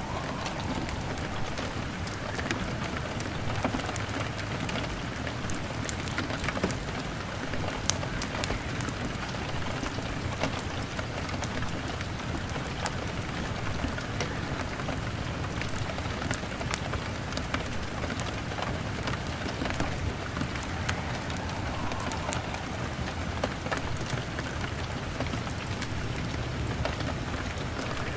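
Steady rain falling on a window, mixed with a crackling fire: an even hiss, scattered throughout with sharp little pops and ticks.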